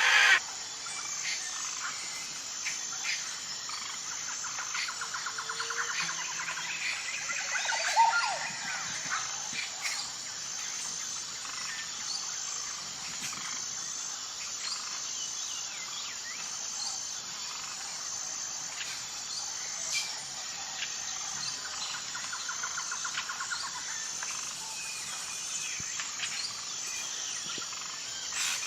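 Natural ambience of wild birds chirping and calling at intervals over a steady, high insect drone with an even pulse. A couple of fast rattling trills and a louder call about eight seconds in stand out.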